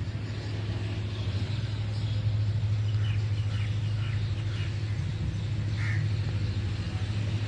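Pakistan Railways ZCU diesel locomotive drawing up on a through train, its engine a steady low drone that grows louder from about a second in. Birds call faintly over it, one clear call about six seconds in.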